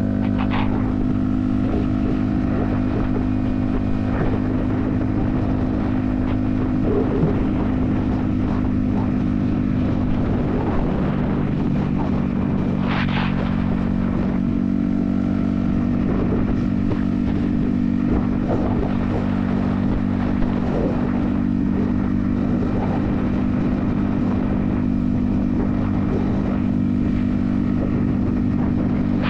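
Yamaha XSR155's 155 cc single-cylinder engine running steadily at highway cruising speed, its pitch holding nearly constant, heard from a helmet-mounted camera with rushing wind noise. A brief higher sound breaks in about 13 seconds in.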